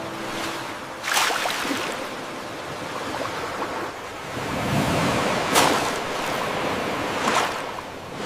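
Ocean waves washing onto a beach: a steady rush of surf, with sharper breaking surges about a second in, midway and near the end.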